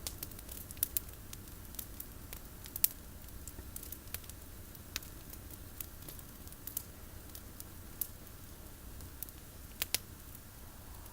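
Campfire of pruned olive branches crackling, with irregular sharp pops and snaps over a low steady background; the loudest pop comes about three seconds in.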